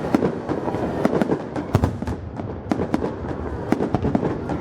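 Fireworks bursting in quick, irregular succession: many sharp bangs over a continuous crackle and rumble.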